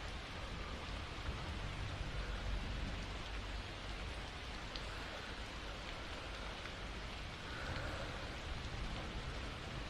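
Steady rain falling, with an occasional faint drop tick. A soft breath swell may sit under it near the end.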